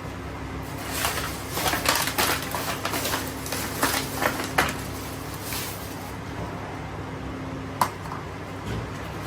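Kitchen dishes and utensils clinking and clattering in a quick run of knocks, then one sharp click a few seconds later.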